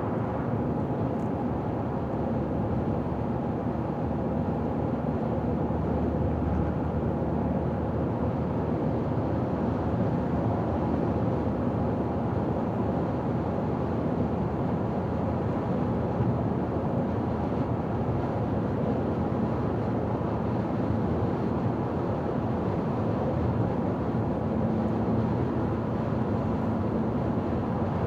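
Car driving at highway speed: steady road and tyre noise with engine hum, unchanging throughout.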